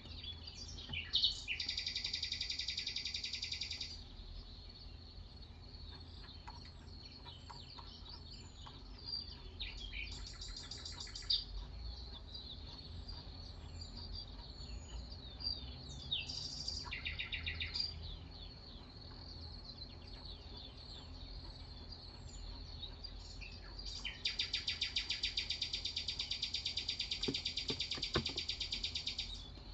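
Birdsong: scattered high chirps and four fast, even trills of a few seconds each, the longest near the end.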